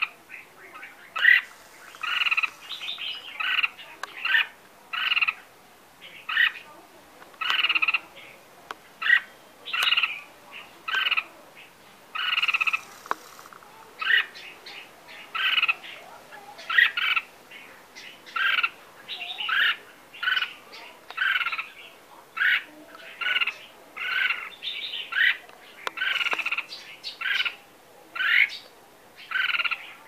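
A small caged bird calling over and over, short chirps about once a second.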